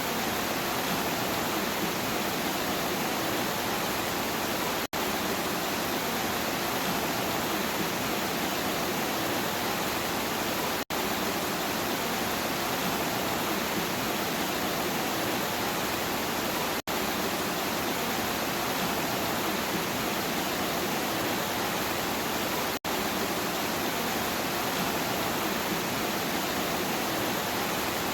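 Steady rainfall, an even hiss, broken by a brief dropout about every six seconds.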